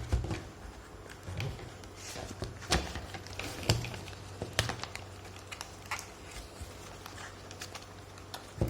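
Scattered light clicks and taps of a small package being handled and opened, over a faint steady low hum.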